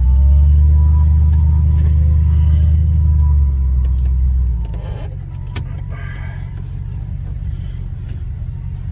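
A vehicle engine rumbling, loud for the first four seconds or so, then dropping to a steadier, lower hum.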